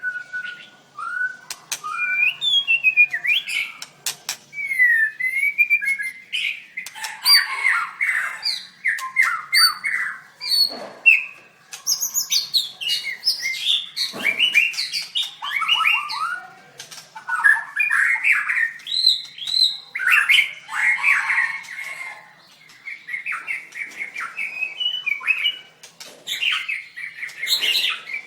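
White-rumped shama singing a long, varied song of rapid whistled phrases and chattering trills, broken by short pauses and sharp clicks.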